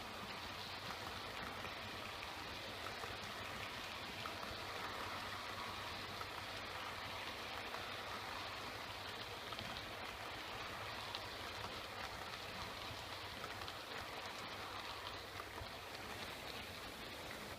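Model train rolling along a test track: a steady rattling hiss of small metal wheels on model rail, with a faint motor hum underneath.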